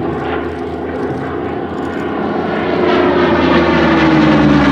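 Hawker Hurricane's Rolls-Royce Merlin V12 engine droning in flight, growing louder about three seconds in as its pitch slowly falls while the fighter passes by.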